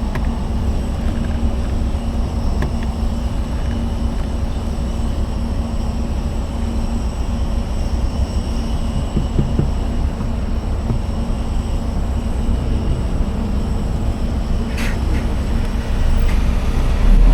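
Riding noise on a Savic C3 electric motorcycle: a steady low rumble of wind and road, with faint steady tones above it. There is a short sharp tick near the end, and the rumble grows a little louder just after it.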